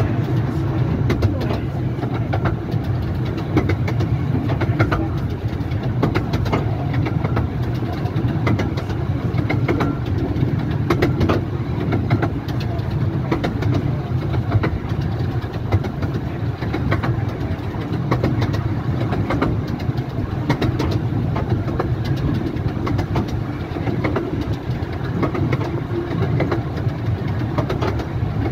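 A 15-inch-gauge miniature railway train on the move, heard from aboard: a steady low rumble of wheels on the rails with scattered light clicks.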